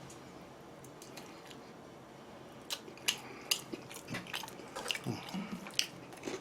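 A person chewing and biting food close to the microphone. It is quiet at first, then from about three seconds in there is a run of sharp, wet smacking clicks.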